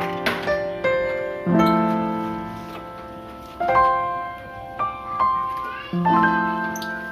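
Slow background piano music, with notes and chords struck every second or two and left to ring out.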